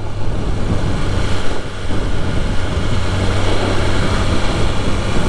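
BMW S1000RR inline-four engine running at a steady pace while riding, a constant low hum under wind noise on the mic.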